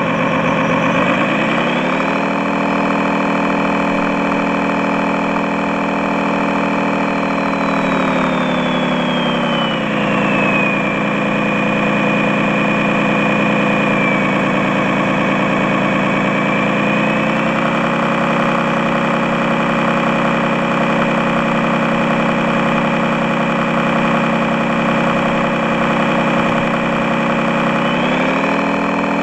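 Electronic engine-sound module of an RC model truck, playing a diesel engine note through its speaker. The note rises in pitch about two seconds in, falls back around eight to ten seconds, and rises again near the end, with a high whine gliding down and back up along with it.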